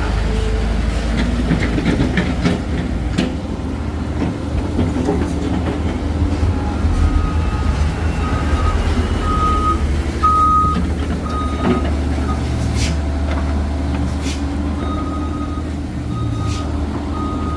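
Heavy diesel engines of excavators running steadily under load, with a few sharp knocks in the first few seconds. A reversing warning alarm beeps about twice a second from about seven seconds in, stops, then starts again near the end.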